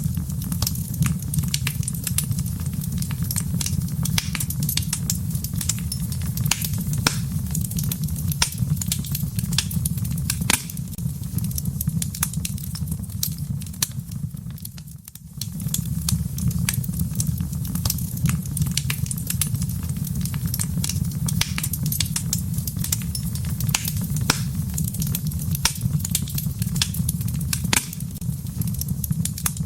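Wood fire burning in a fireplace: a steady low rumble of flames with frequent sharp crackles and pops. About halfway through, the sound briefly fades and then returns.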